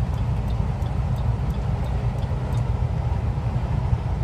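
Steady low drone of a truck's engine and road noise heard inside the cab while driving. Faint quick ticks, about three a second, run over it and stop about halfway through.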